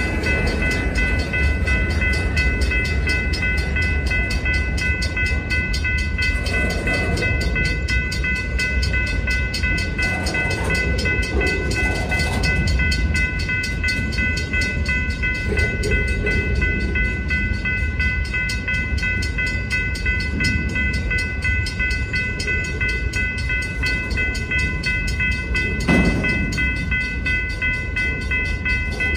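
Freight train cars (centerbeam flatcars and boxcars) rolling past close by: a steady rumble of steel wheels on rail, with a steady high-pitched tone over it. Near the end a single sharp clank.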